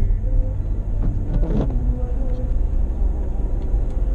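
Car driving, heard from inside the cabin: a steady low rumble of road and engine noise, with a brief swish about a second and a half in.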